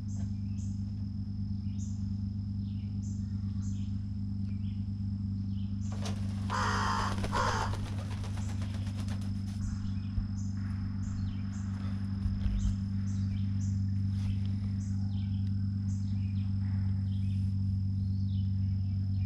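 Harsh bird calls from a large bird for a few seconds around the middle, over steady, regular insect chirping and a low, steady hum.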